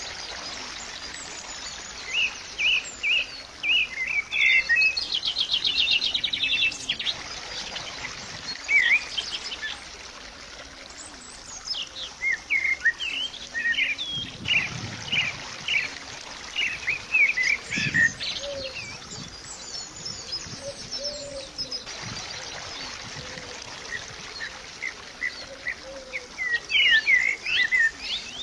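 Small birds chirping and calling: many short, high chirps scattered throughout, with a rapid trill about five seconds in, over a steady background hiss.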